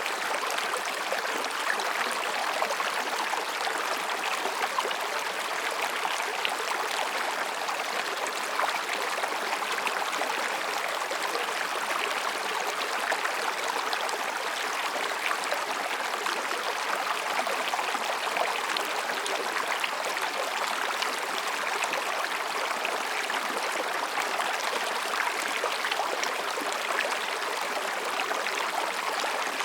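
Mountain stream running over and between rocks, a steady babbling rush of water with fine splashing detail.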